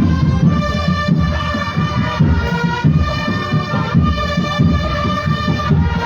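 A marching drum band playing: dense, steady drumming underneath a held melody line on wind instruments.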